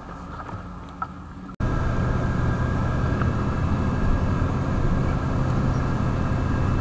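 A motor vehicle driving, a steady engine and road hum. Quieter with a few light clicks at first, it jumps abruptly to a louder steady hum about a second and a half in.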